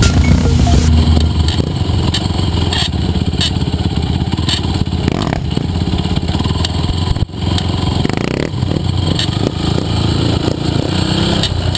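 Sport quad (ATV) engines running on a motocross track, revving up with rising pitch about eight seconds in and again near the end.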